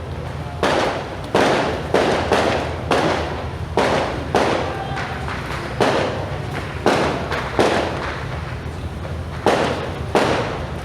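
Firecrackers going off one after another: about a dozen loud bangs at irregular intervals, each trailing off briefly, over a steady low rumble.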